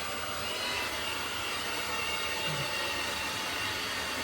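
eufy X10 Pro Omni robot vacuum and mop running while mopping: a steady whirring hiss from its suction motor with a faint high whine.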